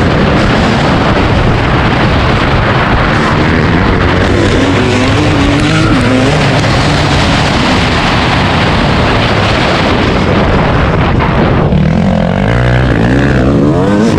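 Dirt bike engine running hard under a dense rushing noise, its pitch rising and falling with the throttle, swinging more widely near the end.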